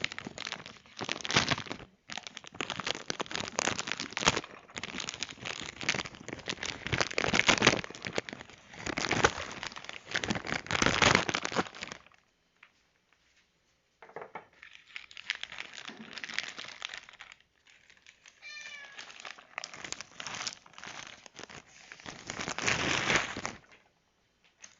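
Food packaging being opened: crinkling and rustling in long stretches, with a pause of about two seconds midway. A cat gives a short meow about two-thirds of the way through.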